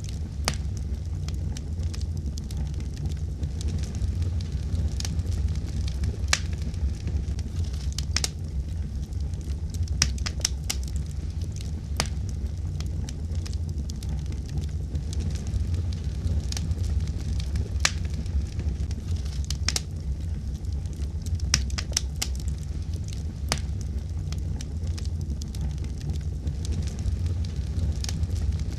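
Fire burning in a fireplace: irregular sharp crackles and pops, a few a second, over a steady low rumble.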